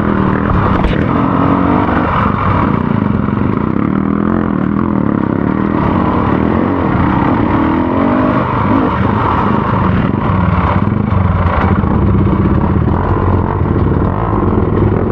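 Off-road motorcycle engine running under changing throttle while riding a trail, its pitch rising and falling.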